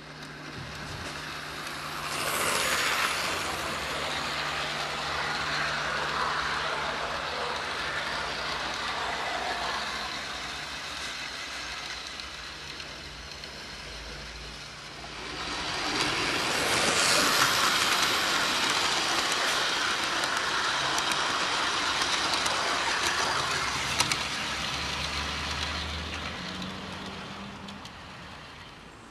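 00 gauge model trains running on an outdoor garden track, the wheels rattling over the rails as they pass. Two passes, the first loudest about two seconds in and the second swelling about halfway through, then fading away near the end.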